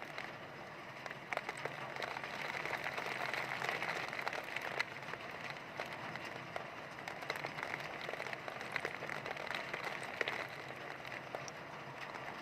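Heavy rain pouring and pattering on surfaces with many close drops ticking, swelling in gusts of wind.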